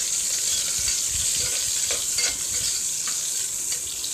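Onions frying in hot oil and ghee in a pressure cooker, a steady sizzle with a few light clicks as they are stirred.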